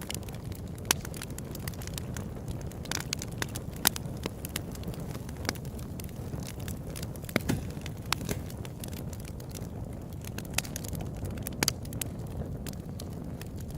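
Open-air campfire crackling: irregular sharp pops and snaps from the burning wood over a steady low rush of the flames.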